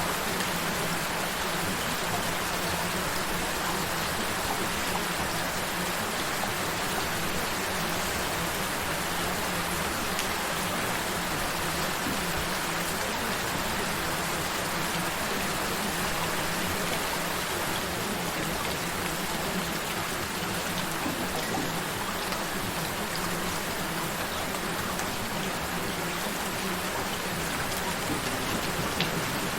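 Steady gentle rain falling, an even patter with no breaks, with a low steady tone running underneath it.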